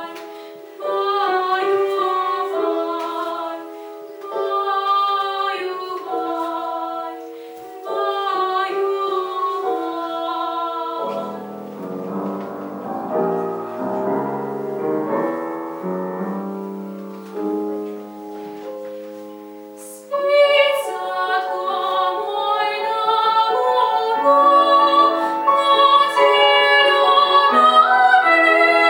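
A classical soprano sings with piano accompaniment. About eleven seconds in, the voice drops out for a short piano interlude, and she comes back in with a long vibrato-rich phrase about twenty seconds in.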